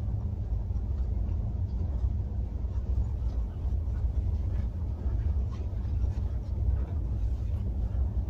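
Steady low rumble inside a railway sleeper coach, with faint light ticks now and then.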